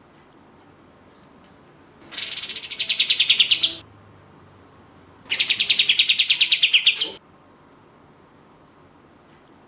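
Kapas tembak songbird giving its fast machine-gun trill twice, each burst just under two seconds long. Each is a rapid rattle of many notes a second that starts high and steps down in pitch partway through.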